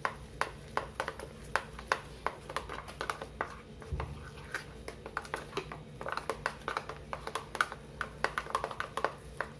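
A utensil clicking and scraping against a bowl while mixing thick idli batter: a quick, irregular run of light clicks, about three a second.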